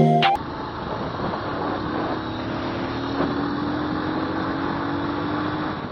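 Motorcycle on the move, heard from a helmet-mounted action camera: steady engine, wind and road noise, with a faint hum that rises slowly in pitch over the last few seconds. A burst of electronic music cuts off just at the start.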